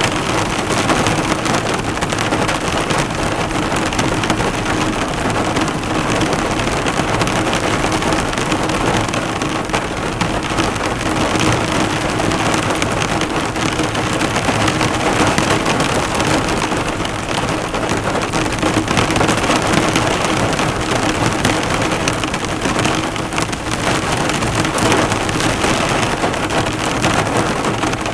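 Heavy rain drumming steadily on a car, the drops bouncing off the bonnet in a dense, even patter.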